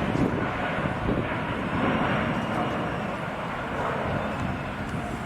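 Airbus A350 jet engines running as the airliner passes on its landing approach, a steady rushing noise.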